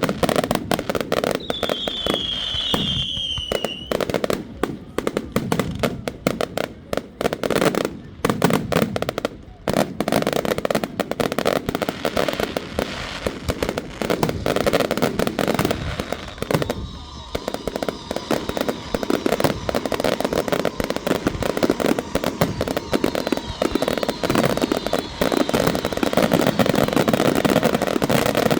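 Dense fireworks barrage: a continuous rapid crackle of pops and bangs, with a falling whistle about two seconds in.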